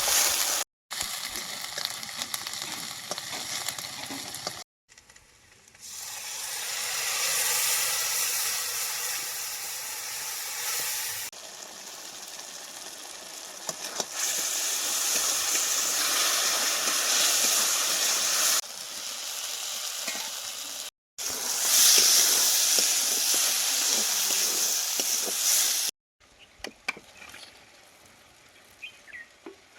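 Chicken curry sizzling and frying in a pan. The sound breaks off abruptly a few times and changes loudness between stretches, and it is quieter near the end.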